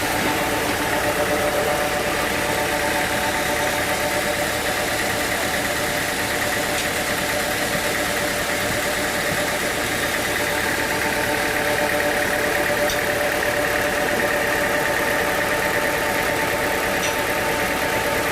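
Sawmill machinery running steadily: a constant engine-like drone with several unchanging tones and no change in load.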